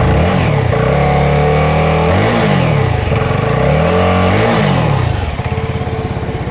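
CFMoto 300NK's 292 cc single-cylinder engine being revved through its underbelly exhaust. It climbs to higher revs, is held up there with a couple of swings in pitch, then drops back to a smooth idle about five seconds in.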